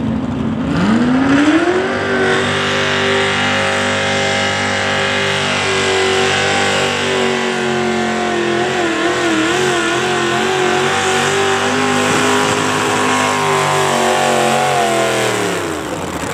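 Pulling-vehicle engine at full throttle on a hook: the revs climb sharply about a second in and hold high while the sled is pulled, the pitch wobbling for a couple of seconds midway, then fall away near the end as the driver lets off.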